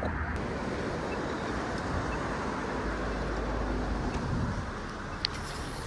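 Steady rush of road traffic, easing off about four and a half seconds in, with one short click about five seconds in.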